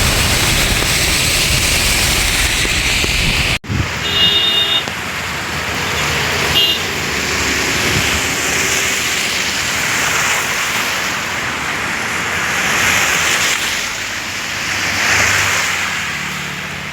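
Road traffic in heavy rain: cars passing with a steady wash of tyre and rain noise that swells and fades as vehicles go by.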